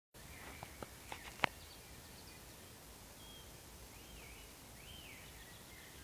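Wild songbirds singing: several slurred whistled phrases that rise and fall, repeating through the second half. A few sharp clicks sound in the first second and a half, the last the loudest.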